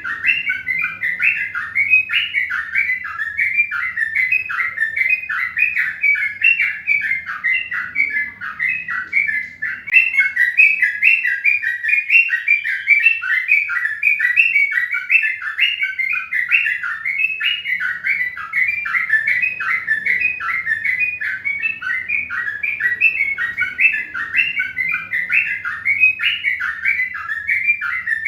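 A bird chirping rapidly and without pause, several short notes a second.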